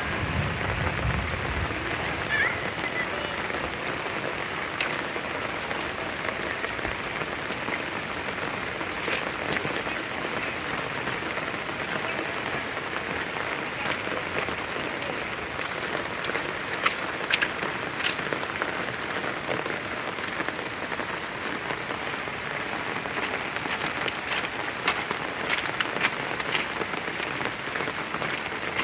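Heavy downpour pouring steadily, with a few sharper drops or splashes standing out now and then.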